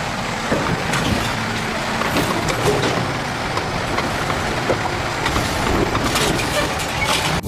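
A garbage truck running: a steady, noisy rumble with a few faint clicks.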